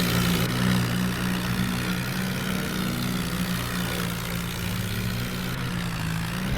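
Heavy diesel engine of a tractor or backhoe loader running steadily at a low, even pitch, easing down slightly about four seconds in.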